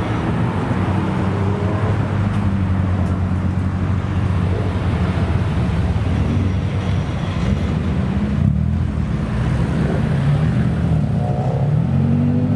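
Modified Japanese cars' engines running at low revs through loud aftermarket exhausts, a deep steady rumble whose pitch wavers, with a rev rising briefly near the end.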